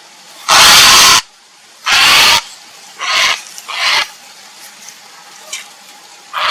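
Grey heron giving harsh, rasping croaks. Two loud calls come in the first half, two shorter and fainter ones follow around three and four seconds in, and another starts right at the end.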